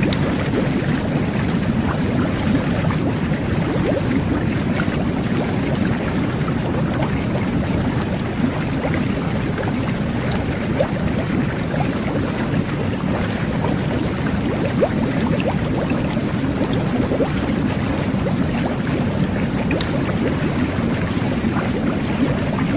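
Jetted bubble bath running: water jets churning the tub in a steady low rush, with small bubbling pops scattered through it.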